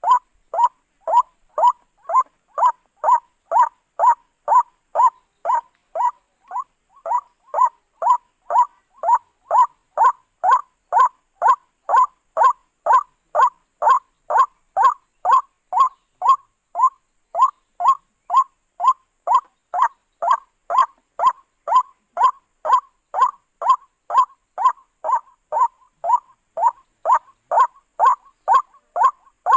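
White-breasted waterhen (ruak-ruak) calling, a steady, unbroken series of short notes about two a second, pitched around 1 kHz, the 'kruak' call used to lure the bird for trapping.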